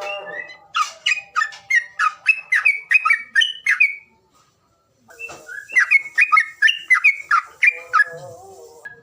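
A songbird's call recording used to prompt caged birds to sing: rapid sharp chirping notes, about three a second, in two runs split by a short silent gap. A lower warbling note comes in near the end.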